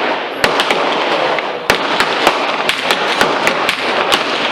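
Gunfire on a shooting range: about a dozen sharp shots at irregular intervals, several shooters firing at once, over a steady background hiss. The loudest shot comes just under two seconds in.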